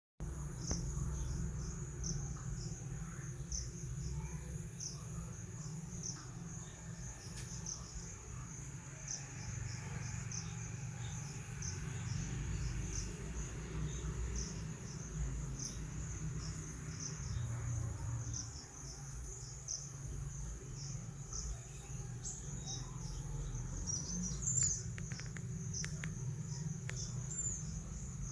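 Insects chirping in short, irregular pulses over a steady low rumble, with a few quick sliding chirps near the end.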